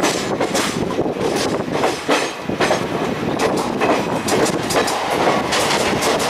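Indian Railways sleeper coaches of a passenger express running along the track: a steady rumble with irregular wheel clacks over rail joints several times a second, heard from an open coach doorway.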